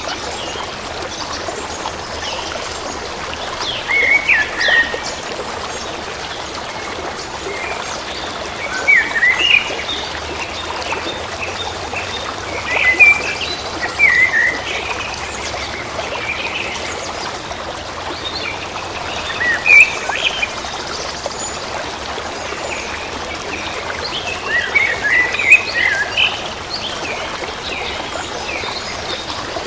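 A stream flowing steadily, with songbirds singing short chirping phrases over it every few seconds.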